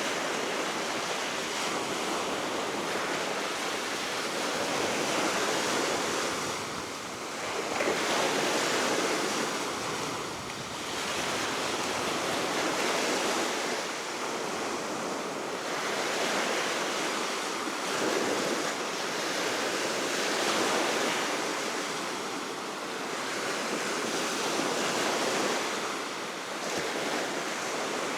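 Baltic Sea waves washing onto the shore, a steady surf that swells and eases every few seconds, with wind blowing on the microphone.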